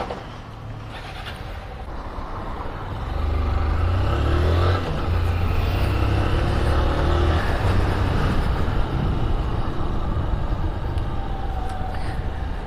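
Honda CG 160 Titan's single-cylinder four-stroke engine pulling away and riding off, getting louder about three seconds in, with a brief dip near five seconds before it runs on steadily.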